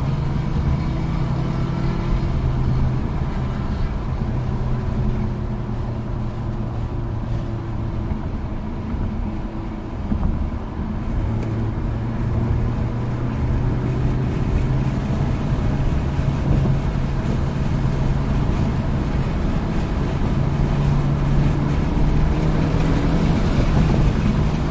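Hyundai Elantra N's turbocharged 2.0-litre four-cylinder engine under track driving, its pitch rising and falling repeatedly as the car accelerates and slows, with a brief easing-off about ten seconds in, over steady road and wind noise.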